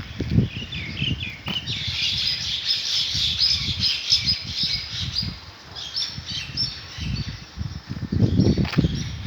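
Small birds chirping in quick, rapid runs of short notes, over an irregular low rumbling with dull thuds.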